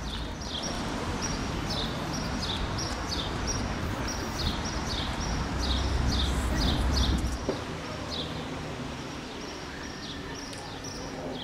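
A bird calling over and over: short, high notes that each fall in pitch, several a second. Beneath them is a low rumble that swells and then drops off about seven and a half seconds in.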